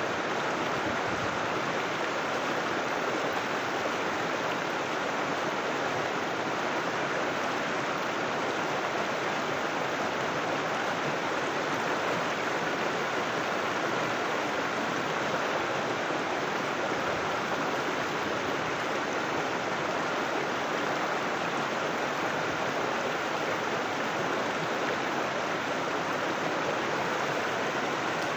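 River water flowing and rushing over rocks in a steady, unbroken stream.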